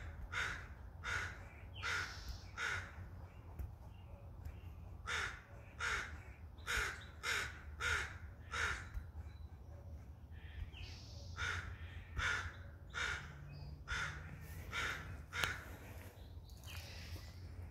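A bird, likely a crow, calling in runs of short, harsh caws about one to two a second, with brief pauses between the runs.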